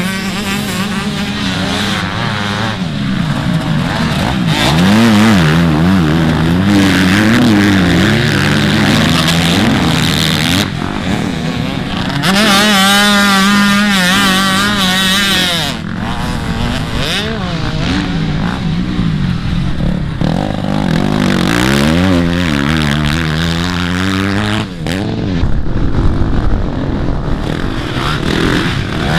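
Motocross dirt bike engines racing, their pitch rising and falling as the riders open and close the throttle and shift. The engine note is loudest and most sustained about halfway through.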